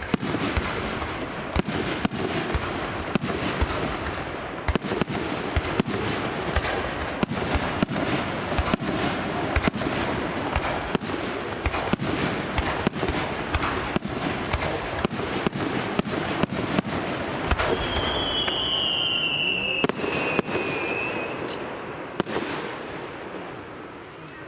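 Fireworks display: a dense barrage of aerial shell bursts and crackling, with sharp bangs several times a second. A thin, slightly falling whistle sounds about three-quarters of the way through, and the barrage dies down near the end.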